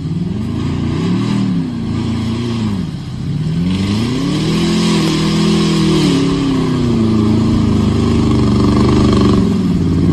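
Pickup truck engine revving: a few quick revs that rise and fall, then held at high revs for several seconds before dropping off near the end.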